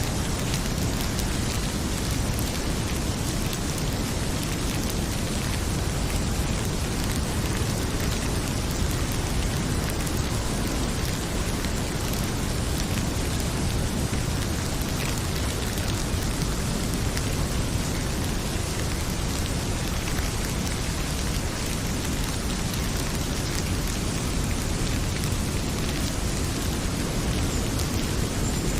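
Heavy rain pouring, a steady dense hiss with a strong low rumble underneath.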